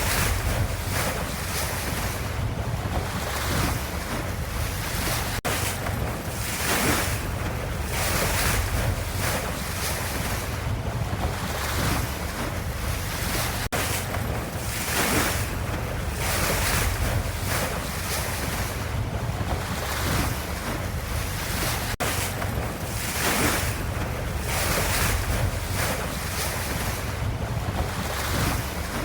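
Ocean waves washing continuously, with a deep rumble beneath and swells of hiss every second or two.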